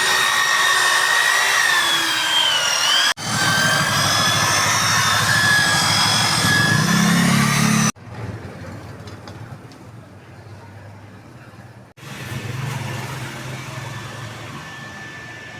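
A small electric power tool running with a steady whine whose pitch wavers under load. It is heard in several abruptly cut segments, much quieter after about 8 seconds.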